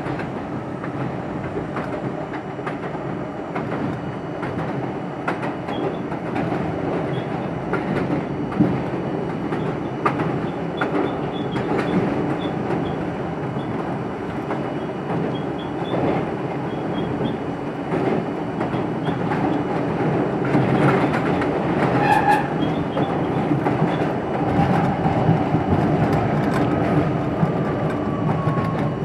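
R42 subway train running along the track, wheels clicking over rail joints over a steady rumble. A brief pitched tone sounds about three-quarters of the way through, and a slowly falling whine comes in near the end.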